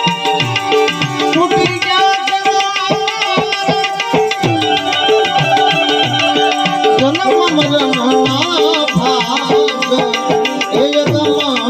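Instrumental interlude of a devotional bhajan: tabla playing a steady rhythm, its bass strokes gliding in pitch, under a sustained, wavering melody line.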